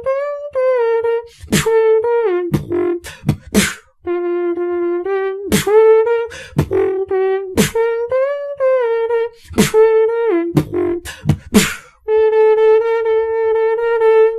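Beatboxing in which one voice carries a held melodic tone that steps between a few notes while sharp percussive kick and snare hits cut in between.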